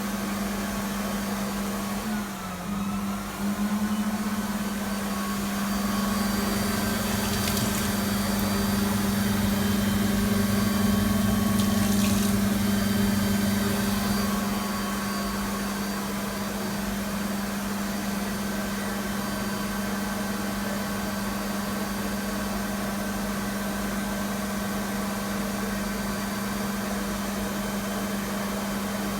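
Electric hand dryer running nonstop with a steady hum and rush of air, stuck on and not shutting off, which the uploader wonders is a fault. Its pitch wavers briefly about two seconds in, and it runs somewhat louder for a stretch in the middle.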